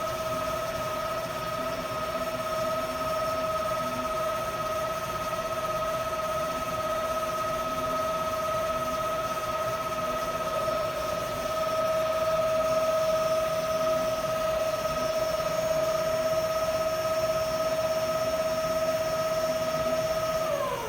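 Hyd-Mech V-20 vertical band saw running with a steady whine, then switched off near the end, the whine falling quickly in pitch as the drive spins down.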